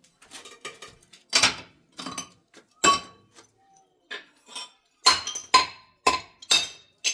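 About a dozen sharp clinks and knocks of ceramic tiles and hand tools being handled during tiling work, irregularly spaced, some ringing briefly.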